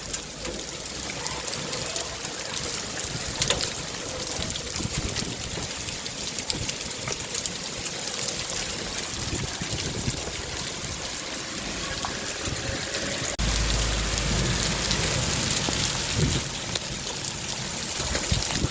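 Rain falling steadily: a dense hiss with scattered drop splashes. A low rumble sets in suddenly about two-thirds of the way through and lasts a few seconds.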